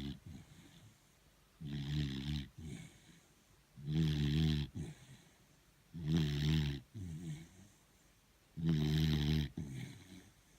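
Beagle snoring in its sleep: a low snore about every two seconds, four in all, each under a second long, with soft breaths in between.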